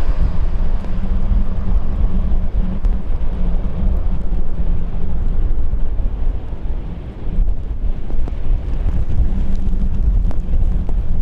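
Wind buffeting the microphone over the low, steady rumble of jet airliner engines.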